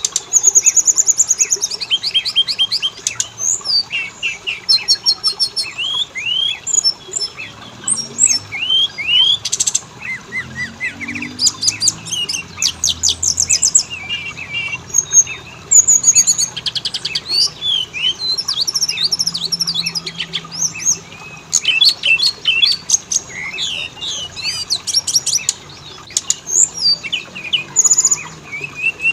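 Oriental magpie-robin (kacer) singing a rapid, varied song of clear whistles, sharp chirps and fast trills, one phrase after another without a break.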